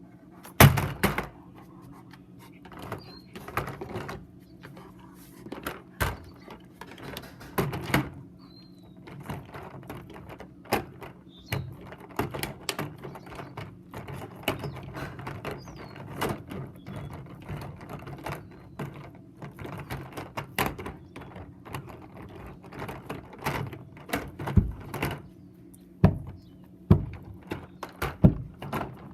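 Irregular knocks, clatters and cracks of a toy truck being chewed and knocked about by a German shepherd, the loudest just under a second in, over a steady low hum.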